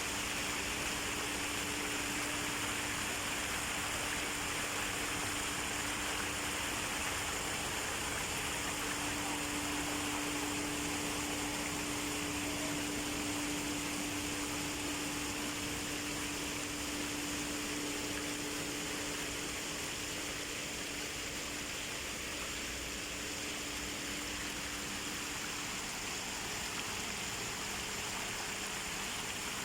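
Steady rush of running water from a park waterfall or stream, with a faint low hum under it that fades out near the end.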